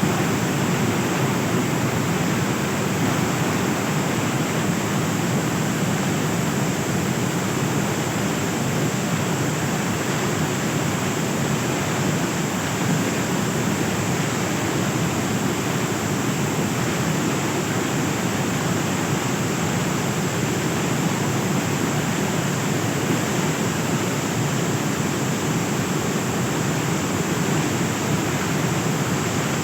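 Rushing floodwater: a steady, unbroken rush of water noise.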